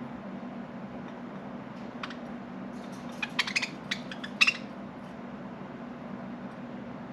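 Budgerigars giving a quick cluster of short, sharp chirps about three to four and a half seconds in, over a steady low hum.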